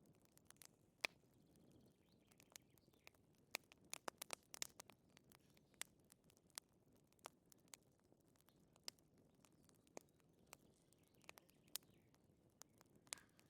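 Wood fire crackling: scattered sharp pops and snaps at irregular intervals, some louder than others, over a faint low hiss.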